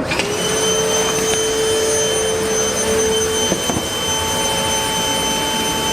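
Milwaukee M18 cordless wet/dry vacuum running as a blower: the motor is switched on and its whine climbs quickly to speed, then holds a steady high whine over a strong rush of air.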